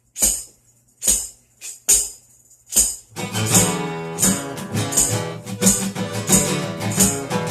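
Tambourine struck four times, about a second apart, then guitar strumming comes in about three seconds in while the tambourine keeps the beat.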